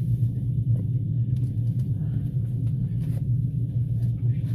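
Passenger train running, a steady low rumble from the carriage and wheels on the rails, with a few faint clicks over it.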